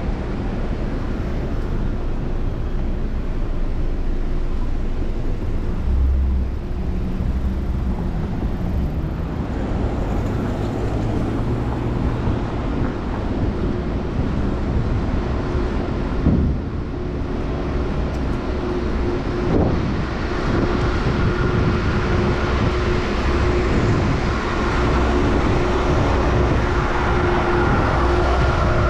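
City traffic and wind noise, heard from a bicycle riding through downtown streets. A steady hum joins about two-thirds of the way in.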